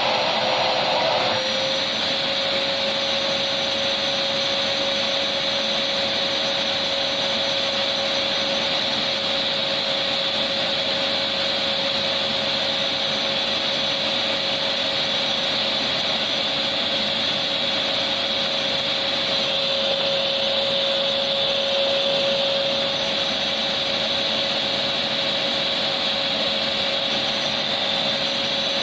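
Electric vacuum cleaner running steadily, a continuous motor whoosh with a steady hum under it. The sound shifts slightly about a second and a half in, then holds unchanged.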